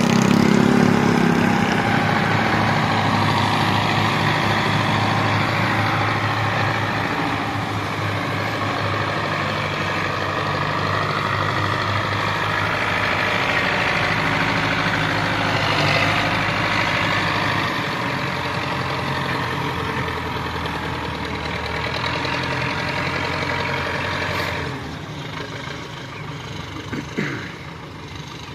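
Tractor diesel engine running steadily, then dropping to a quieter level near the end.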